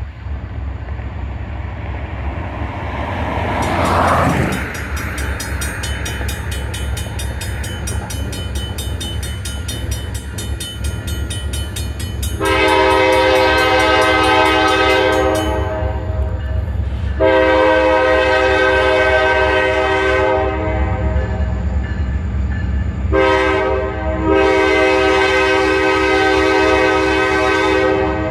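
EMD diesel locomotive rumbling past while its multi-chime air horn sounds two long blasts, a short one and a long one: the long-long-short-long signal for a grade crossing.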